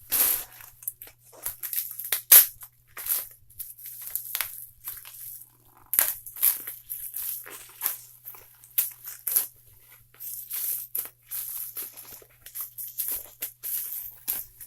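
Plastic packaging crinkling and tearing by hand in irregular crackles, as a wrapped item is unwrapped.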